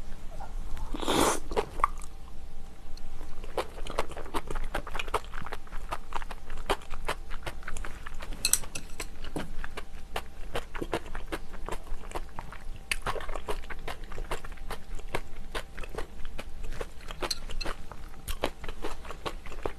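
Close-miked chewing and biting of spicy seafood stew with rice: a steady run of small wet mouth clicks and smacks, with a few louder moments along the way.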